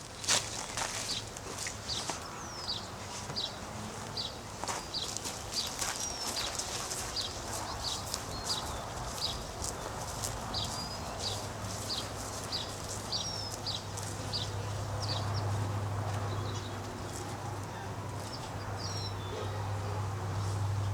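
A small bird repeating short, high chirps, about one or two a second, over a steady low hum, with a few clicks near the start.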